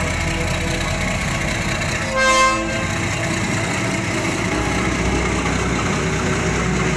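A train horn gives one short toot about two seconds in, over a steady rushing noise.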